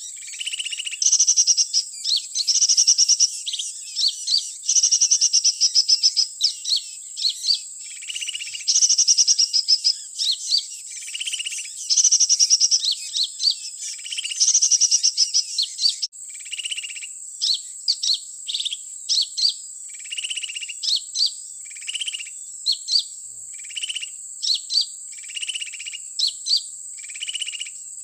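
Small birds' high-pitched chirps and short buzzy trilled phrases repeating about every second, over a thin steady high whine. About sixteen seconds in the pattern changes abruptly to shorter separate chirps. These are sunbird ('kolibri') calls used as a lure for bird trapping.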